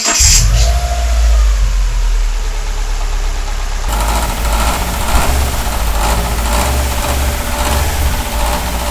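Subaru EJ20 turbocharged flat-four engine starting up and running at idle with a rapid knocking: the slack timing belt slapping the engine because the timing belt tensioner has failed, a noise another shop had taken for rod knock. The knocking grows harsher about four seconds in.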